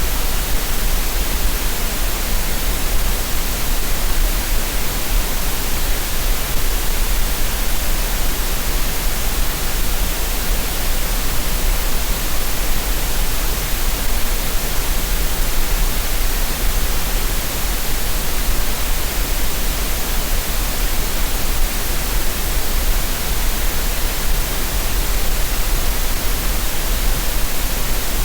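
Green noise: a steady, unchanging synthesized hiss that covers the whole range, with a deep low hum beneath, played as a relaxation and tinnitus-masking sound.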